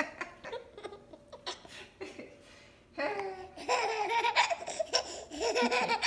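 Someone laughing, starting about three seconds in after a quieter stretch with a few small clicks and knocks.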